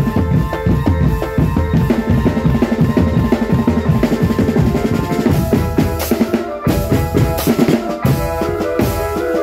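Marching drum band playing: rapid snare and bass drum beats, with a melody played over the drums that comes through more strongly about halfway in.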